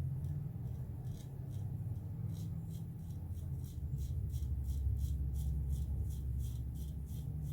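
Gillette Black Beauty adjustable safety razor scraping through stubble in short, quick strokes, about three a second, from about a second in, over a steady low hum.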